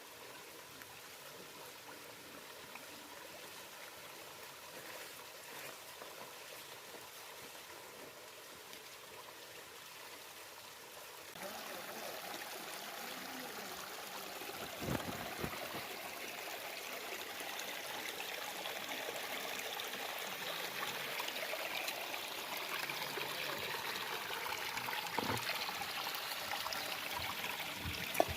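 Running water, a steady rushing trickle that jumps suddenly louder about eleven seconds in, with a couple of brief knocks.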